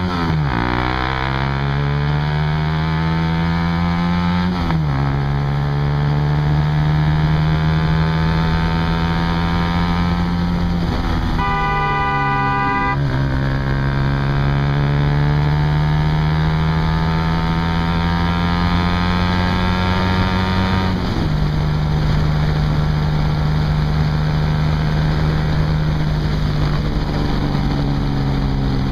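Honda CBR150R's single-cylinder engine running through a Yoshimura exhaust while riding. Its pitch climbs through the revs and drops at each gear change, about five, thirteen and twenty-one seconds in.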